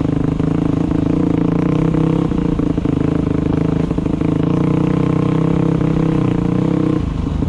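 Dirt bike engine running steadily under way, with scattered knocks and clatter; the engine note drops about seven seconds in as the throttle comes off.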